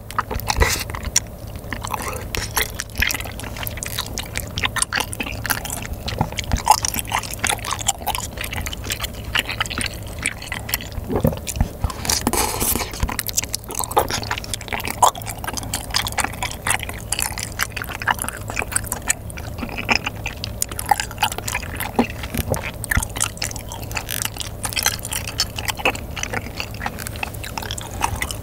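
Close-miked chewing of chewy, sauce-coated bunmoja glass noodles: a steady run of wet, sticky mouth clicks and smacks.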